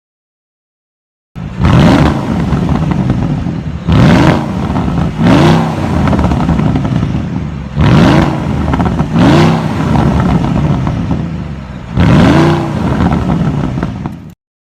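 Sports car engine revved in six sharp blips, each climbing quickly in pitch and dropping back to a rumbling idle between. It starts about a second and a half in and cuts off abruptly near the end.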